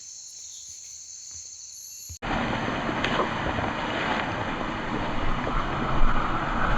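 Night insects trilling steadily in high tones. About two seconds in, a sudden cut brings a much louder, even rushing noise over the insects.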